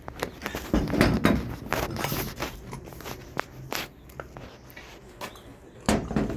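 Scattered knocks, clunks and clicks of parts and tools being handled, with footsteps, loudest about a second in and again near the end.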